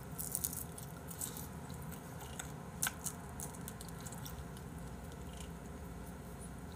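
Quiet eating sounds of a man gnawing meat off a piece of chicken held in his fingers: soft chewing with a few short crunches and mouth clicks, one sharper click about three seconds in.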